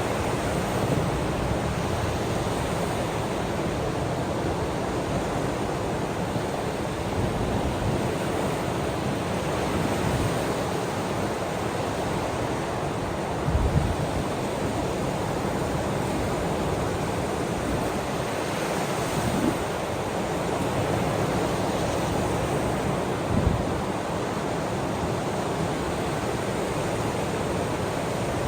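Ocean waves washing steadily, with two brief louder surges, one about halfway through and one near the end.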